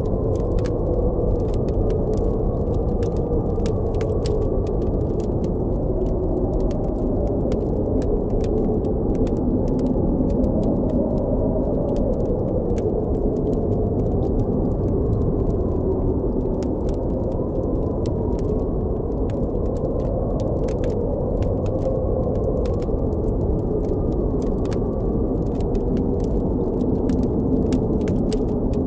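Blizzard wind blowing steadily, a deep rushing with a wavering howl in it, with sparse small crackles of a campfire scattered through.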